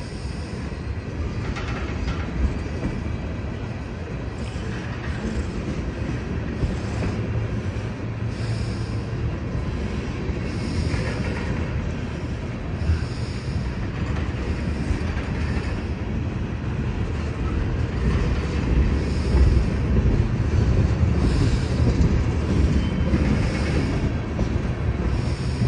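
Freight train of tank cars rolling past: a steady low rumble of wheels on rail, growing a little louder in the last third, with brief high wheel squeals recurring every second or two.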